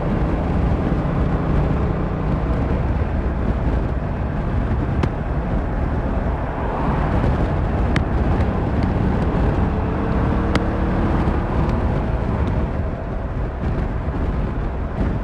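Yamaha MT-07's 689cc twin-cylinder engine running at road speed under heavy, steady wind and road noise, the revs rising briefly about ten seconds in.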